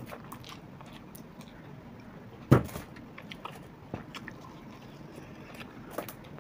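Close-miked eating: a person biting and chewing fried pakora, with scattered small clicks and crackles. About two and a half seconds in comes one loud sudden thump, much louder than the rest.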